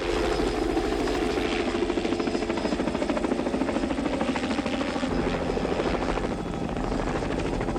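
Helicopter in flight, its rotor chopping rapidly and evenly over a steady engine whine.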